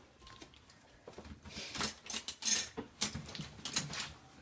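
Shorkie dog licking a dish clean: irregular wet lapping strokes with small clicks against the dish.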